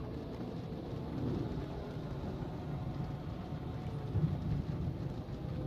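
A vehicle's steady low rumble in the rain, with a brief louder thump about four seconds in.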